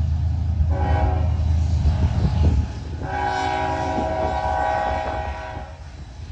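A BNSF freight train's diesel locomotive sounding its air horn in two held blasts, the second longer, over the low rumble of the engines.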